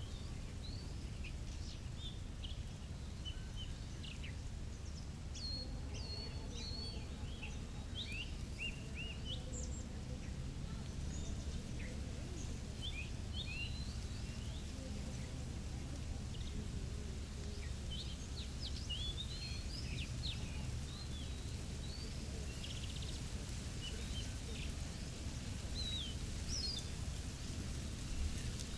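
Birds chirping in many short, quick calls, over a steady low rumble.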